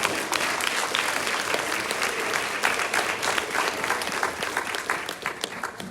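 A congregation applauding and cheering right after a baptism, starting just before and tapering off near the end.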